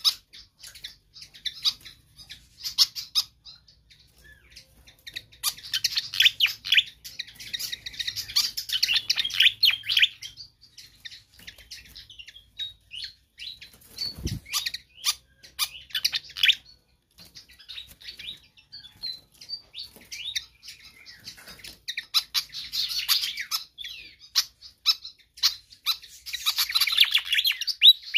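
A fantail (sikatan kipas) singing vigorously in bursts of rapid, high chirping phrases with short pauses between them. A single dull thump sounds about halfway through.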